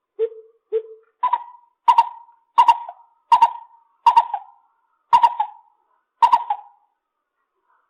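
Lesser coucal calling: two short low notes, then a series of seven louder, higher notes with sharp starts, spaced more widely toward the end.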